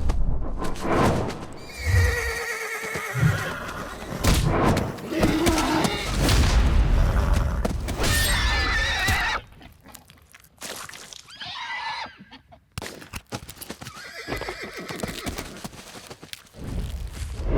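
Wild mustangs whinnying several times, wavering high calls, over heavy hoofbeats and thuds that die down about halfway through.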